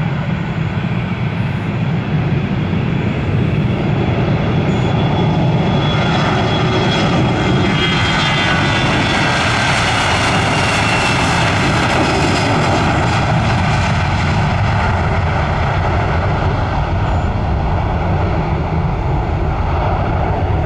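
Airbus A321 jet airliner taking off, its engines running at high power as a loud steady noise with a high whine that slides down in pitch as it passes, about halfway through.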